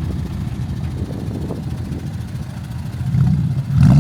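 A vehicle engine running with a low rumble, then revving up louder in the last second as it accelerates.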